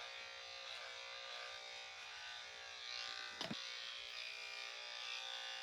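Electric dog grooming clippers running with a steady buzzing hum while trimming a matted coat. One short knock comes about three and a half seconds in.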